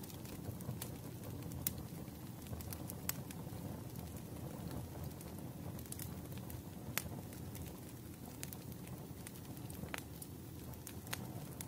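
Fireplace fire crackling: scattered sharp pops and snaps over a steady low rumble of burning.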